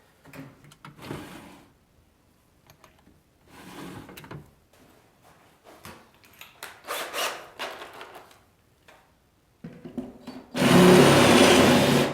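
Workshop tool noise from stripping the seat unit: a few short bouts of scraping and rattling, then a hand-held power tool runs for about a second and a half near the end.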